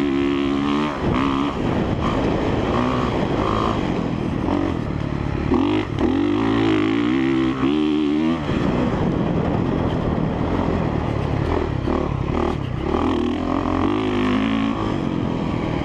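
2017 Honda CRF450R single-cylinder four-stroke dirt bike engine running on track, its pitch rising and falling repeatedly as the throttle is rolled on and off.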